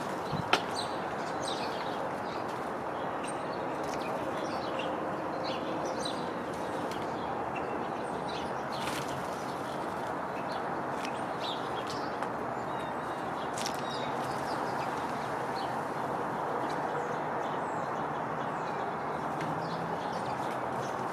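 Small songbirds chirping in short, scattered calls over steady outdoor background noise, with one sharp click about half a second in.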